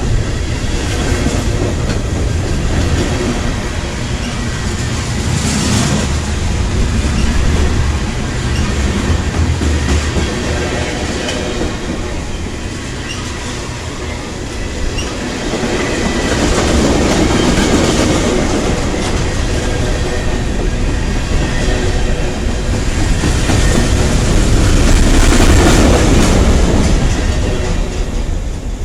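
Freight train cars rolling past, a steady heavy rumble and rattle with wheels clacking over rail joints. It swells louder twice, about two-thirds of the way in and again near the end.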